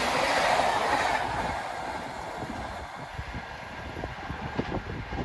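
Passenger train coaches rushing past at high speed with a loud rush of wheel and air noise, which drops away sharply about a second in. A quieter rail rumble follows, with scattered clicks near the end.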